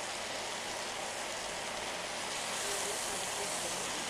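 Vegetables with coconut paste and spices sizzling steadily in oil in a pan as they are sautéed and stirred.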